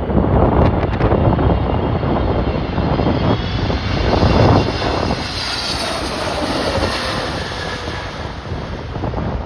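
Jet airliner passing, its engine whine swelling over a few seconds and fading near the end, over gusty wind buffeting the microphone.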